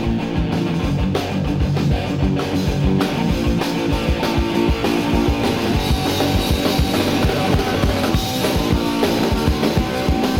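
Punk rock band playing live, an instrumental passage with guitar over fast, driving drum-kit beats.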